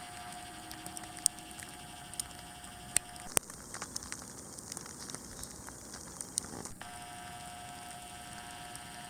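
Heavy wet snowfall pattering close to the microphone: scattered sharp ticks of flakes striking over a steady hiss, with a faint steady hum that drops out for about three seconds in the middle.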